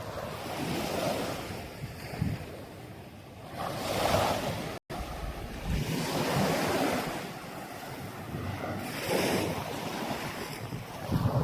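Waves washing up on a sandy beach in repeated swells, with wind buffeting the microphone. The sound cuts out for an instant about five seconds in.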